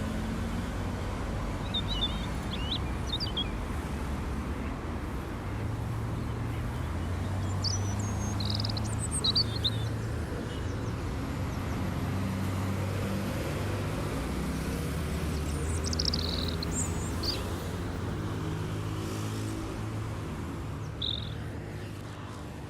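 Steady low hum, like engines or traffic, with birds chirping in short bursts several times over it.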